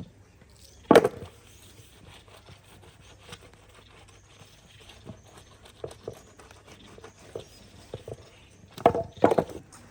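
Scattered knocks and clatter, with one loud thump about a second in and a quick run of heavier knocks near the end.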